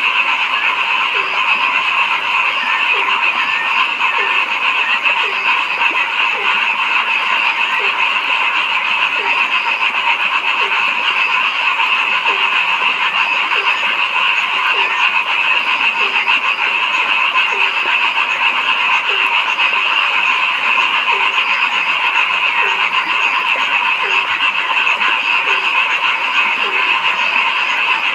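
Chorus of frogs calling continuously, a dense steady wall of croaking, with one lower croak repeating about once a second.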